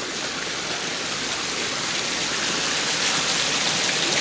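Heavy rain pouring down, a dense steady hiss that grows a little louder toward the end.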